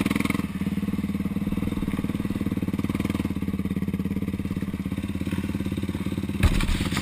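2012 Yamaha YFZ450R SE's single-cylinder four-stroke engine with Rossier exhaust running at a steady speed, then a heavy thump near the end with a few further knocks, as the quad lands hard off an overshot jump.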